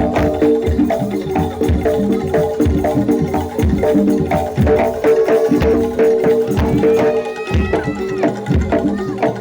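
Live jaranan dor ensemble music: drums beat a steady pattern under the ringing notes of gong-chimes and metallophones, with a brief high wavering melody line about seven seconds in.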